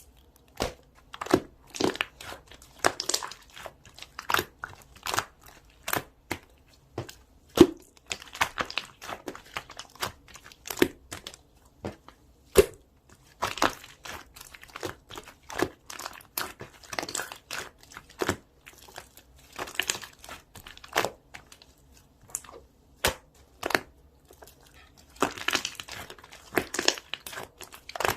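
Irregular crinkling and crackling, many sharp crackles a second, as of something being crumpled and crushed.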